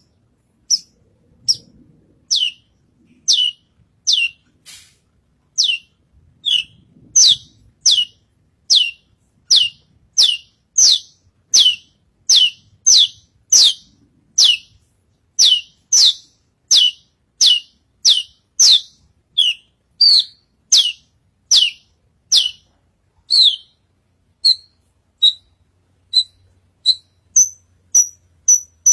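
Javan bush lark (branjangan) singing hard, repeating one loud whistled note that slides downward, roughly three notes every two seconds. Near the end it switches to shorter, quicker notes that hold a steady, higher pitch.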